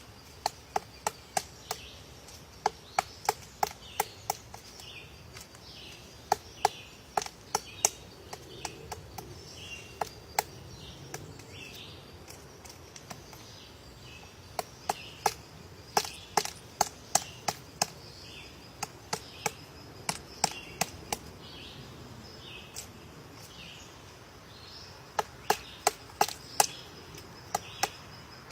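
Woodpecker pecking at wood: sharp single knocks in irregular runs of a few a second, with pauses between runs, not a fast drumming roll. Faint short chirps repeat about twice a second in the background.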